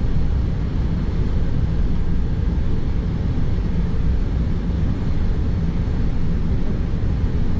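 Steady low drone of an airplane's engine and airflow heard inside the cockpit, running evenly without change.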